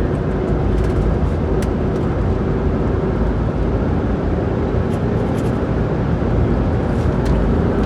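Motor vehicle running steadily on the road: an even engine and road drone with a steady hum, no revving, and a few light clicks.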